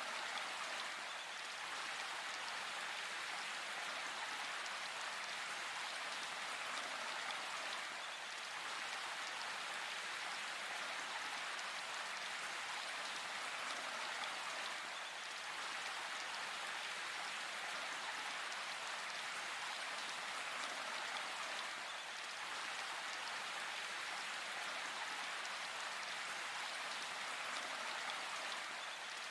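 Steady rain falling in a forest, an even hiss of drops without a break.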